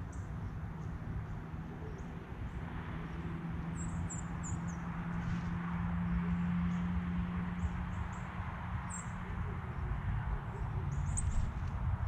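Outdoor ambience: short, high bird chirps now and then, clustered a few seconds in and again near the end, over a low steady rumble with a faint hum through the middle.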